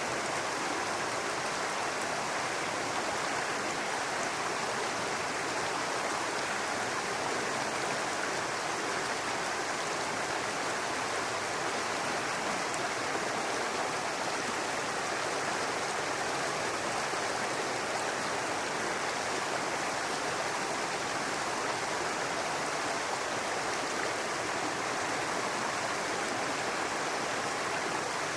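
Babbling brook: water running over rocks in a steady, even rush.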